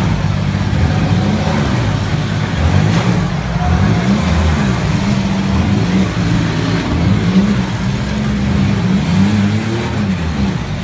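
Engines of several bone-stock demolition derby cars revving hard together, their pitch rising and falling again and again.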